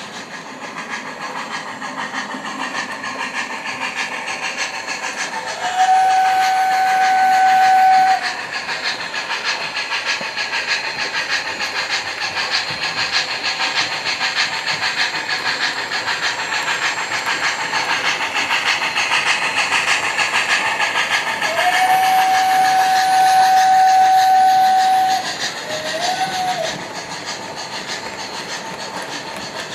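Model steam locomotive's onboard sound system (MTH Proto-Sound 2) playing steady steam chuffing and hiss as an O-gauge MTH Premier PRR A5 0-4-0 switcher runs on track. The steam whistle blows once, then later blows a longer blast followed by a short toot.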